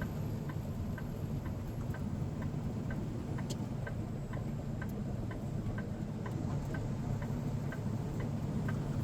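Turn signal ticking steadily, about two ticks a second, over the low steady drone of the semi-truck's engine.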